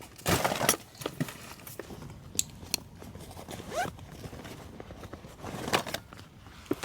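Rustling and scattered sharp clicks of things being handled, with a brief rising squeak near the middle.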